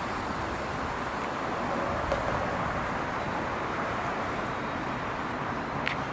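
Steady vehicle running noise, an even rumble and hiss, with a faint short tone about two seconds in and a faint click near the end.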